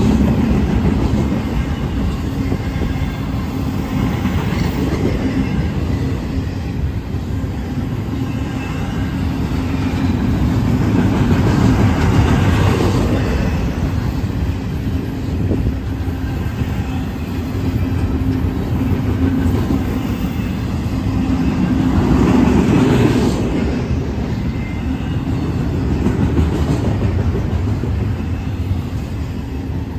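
Double-stack intermodal well cars rolling past close by: a steady rumble of steel wheels on the rails, swelling and easing every several seconds as the cars go by.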